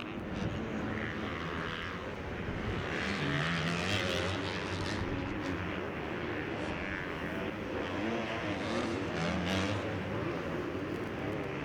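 Motocross bike engines running on the track, their pitch rising and falling as the riders work the throttle and shift. The engine note swells a few times over the course of the sound.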